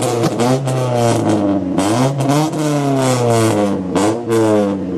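Sixth-generation Honda Civic engine revved repeatedly through its exhaust, the pitch climbing and dropping back several times, with a few sharp cracks between revs.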